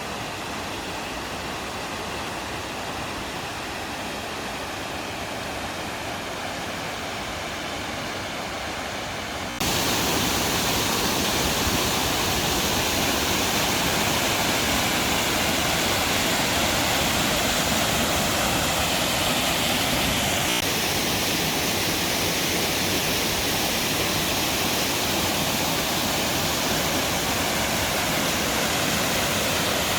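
Lainbach waterfall rushing steadily, a dense roar of falling water that steps up abruptly louder about ten seconds in.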